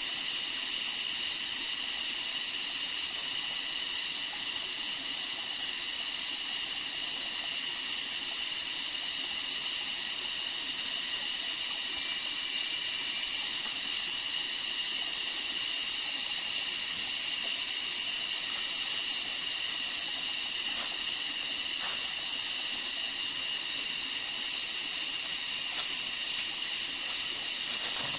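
Steady high-pitched drone of a rainforest insect chorus, several even tones layered into a hiss, with a few light clicks or taps in the last third.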